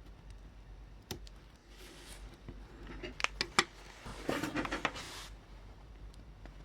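Small hard parts and tools being handled on a workbench: one click about a second in, a quick run of sharp clicks near the middle, then about a second of clinking and rattling.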